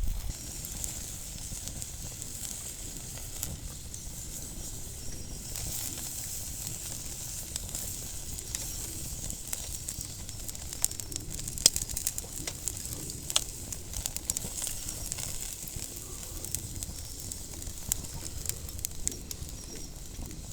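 Yakitori chicken skewers sizzling over a wood campfire, with the fire crackling in many scattered sharp pops.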